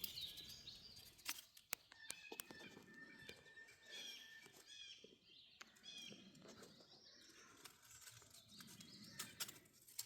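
Faint songbirds chirping in the woods, with a thin steady whistle for a couple of seconds and scattered soft clicks and rustles.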